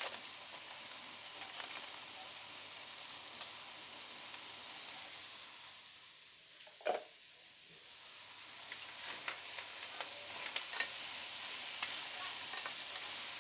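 Noodles with shrimp and clams sizzling as they fry in a pan, stirred with a spatula. The sizzle dips quieter a little past halfway, with one brief sharp sound, then picks up again with small scraping ticks of the spatula against the pan.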